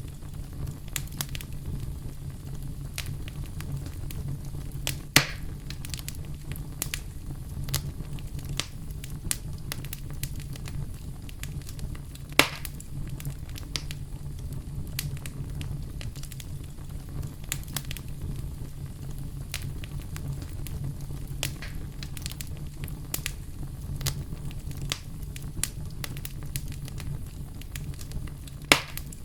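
Campfire crackling: frequent sharp pops and snaps, with three louder cracks, about five seconds in, near the middle and near the end, over a steady low hum.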